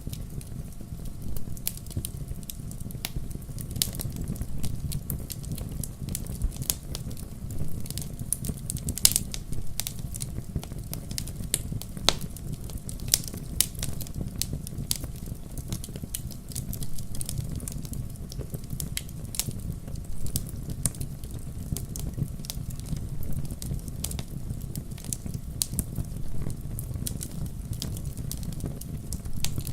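Wood fire burning in a fireplace, crackling with many sharp, irregular pops over a steady low rumble of the flames.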